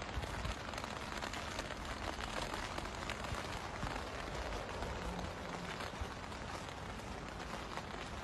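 Steady background hiss with faint scattered crackles, an even noisy ambience without any distinct event.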